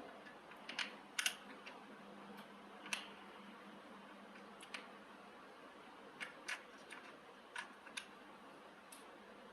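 About a dozen light, sharp clicks and ticks at irregular intervals, some in quick pairs, from small parts being handled as a model cart is taken apart.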